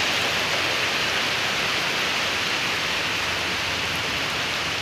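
Heavy rain falling steadily in a downpour, an even, unbroken wash of noise.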